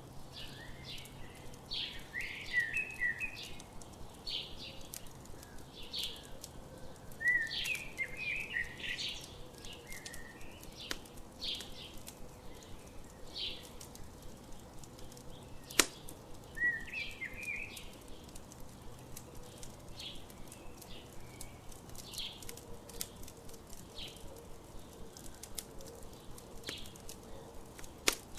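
Campfire crackling with scattered sharp pops, one louder snap a little past halfway, under morning birds repeating short chirps, with a few quick twittering phrases.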